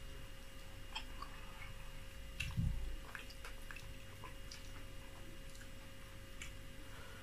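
Eating by hand: wet chewing and small mouth clicks as oatmeal fufu with soup is chewed, with soft squishes of fingers pinching fufu and soup on the plate. There is a soft low thump about two and a half seconds in, and a faint steady hum underneath.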